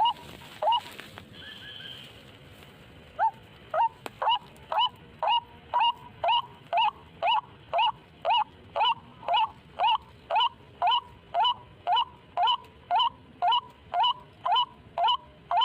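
White-breasted waterhen call: one short, rising note repeated steadily about twice a second. The calling stops for about two seconds near the start, then resumes.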